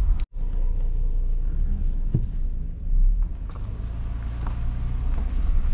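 Chevy Silverado pickup driving on the road: a steady low rumble of engine and tyres, cut off for a split second near the start.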